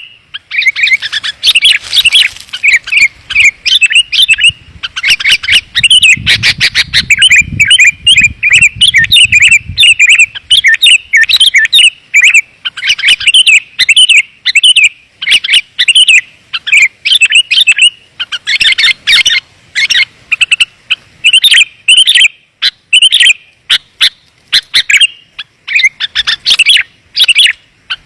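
Sooty-headed bulbul (kutilang) calling in quick, dense runs of clear chirping notes, a lure recording meant to draw in wild bulbuls. A faint low rumble sits under it about six to ten seconds in.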